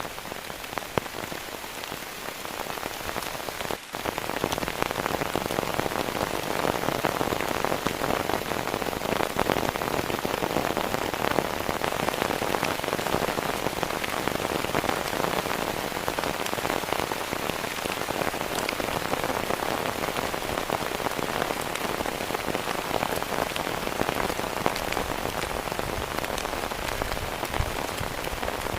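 Heavy rain falling, a dense steady patter of many drops. There is a brief break just before four seconds in, after which it is a little louder.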